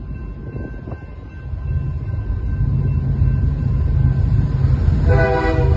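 Approaching train: a low locomotive rumble growing steadily louder, with a horn blast near the end.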